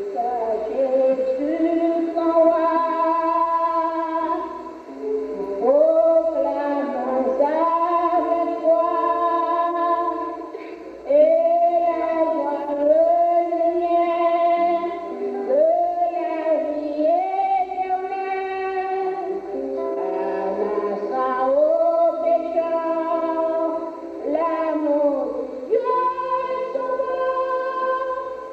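Music: a woman singing a slow song in long, held phrases, with instrumental backing.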